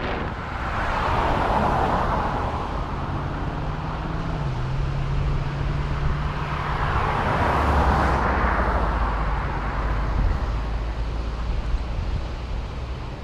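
Wind rushing over a bicycle-mounted action camera's microphone while road traffic passes. One vehicle swells past about a second in, and a second, lower-humming one goes by around the middle to later part.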